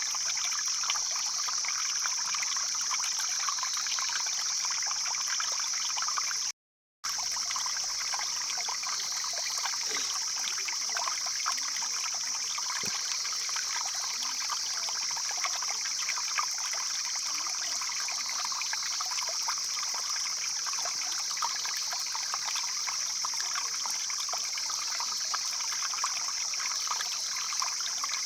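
Mountain stream flowing steadily over rocks: a continuous rush of water. The sound cuts out completely for under half a second about six and a half seconds in.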